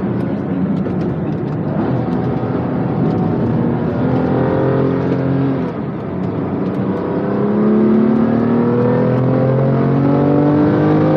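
BMW M2 Competition's twin-turbo 3.0-litre inline-six under hard acceleration, heard from inside the cabin. Its pitch climbs, drops briefly about six seconds in at an upshift, then climbs steadily again for several seconds, over a steady rush of tyre and wind noise.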